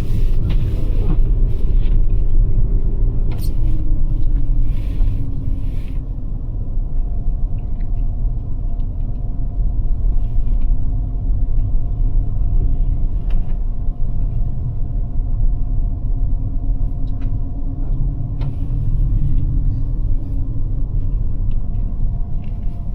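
Cabin sound of a Toyota RAV4 Prime driving on a snow-covered road on Blizzak winter tires: a steady low rumble of tyres and road, with a faint tone that drops in pitch about three seconds in and then holds steady. A brighter hiss runs through the first six seconds, and a few light clicks come through.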